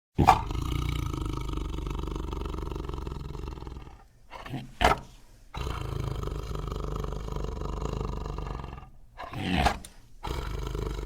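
Designed sound effect of a Smilodon, a sabre-toothed cat, growling and roaring: it starts suddenly with a loud roar, then a long low rumbling growl, broken by short loud roars about four and a half and nine and a half seconds in.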